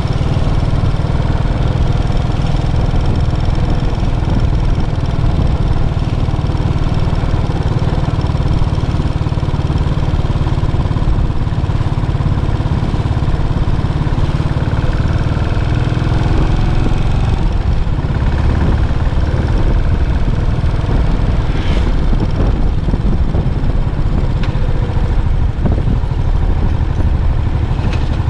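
Yamaha SR400's air-cooled single-cylinder four-stroke engine running through its stock muffler, a steady deep thumping rumble.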